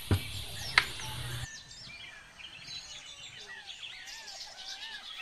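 Birds chirping and twittering in the background, repeated warbling calls, with two sharp clicks in the first second.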